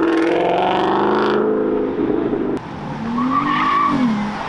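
Car engines revving hard as cars accelerate away, the pitch climbing in the first second or so. A second rev rises and falls about three seconds in.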